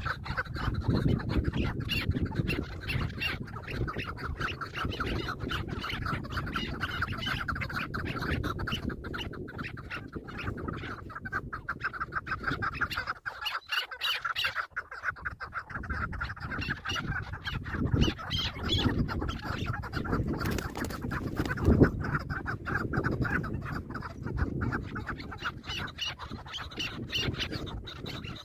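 Chukar partridges calling, a dense run of rapid, repeated clucking notes, over a low rumble. The calling eases briefly about halfway through.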